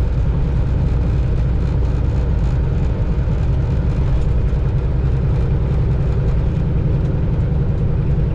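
Semi truck's diesel engine and road noise heard from inside the cab while driving: a steady low drone with no change in pace.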